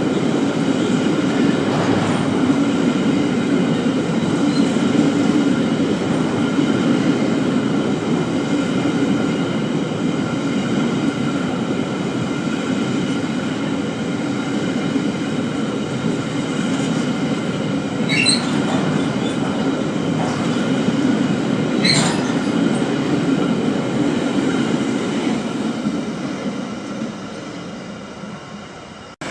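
Freight train rolling through on the rails: a steady running noise of wagons on the track with faint high steady tones. Two short sharp squeals come about 18 and 22 seconds in, and the sound fades away near the end.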